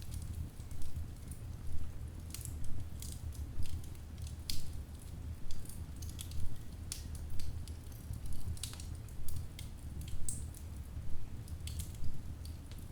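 Wood fire in a fireplace crackling: irregular sharp pops and snaps over a steady low rumble of burning logs.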